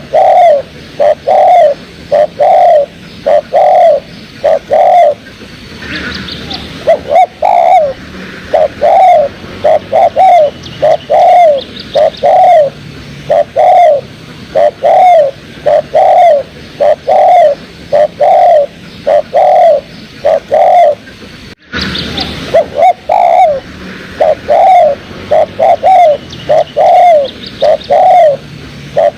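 Spotted dove (tekukur) cooing: a loud, steady run of short, arched coos repeated over and over, broken once by a brief gap near the end.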